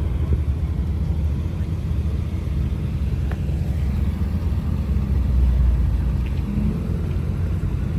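Car engine rumbling steadily at low revs, its low exhaust note holding even throughout.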